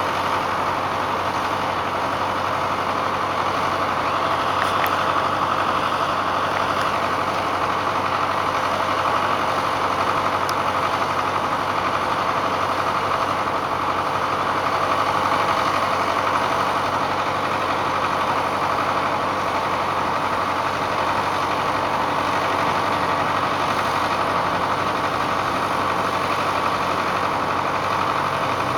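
Tractor engine idling steadily during its warm-up.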